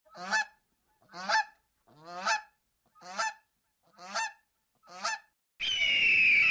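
Six short animal calls, about one a second, each rising in pitch, then a longer, high, steady cry begins near the end.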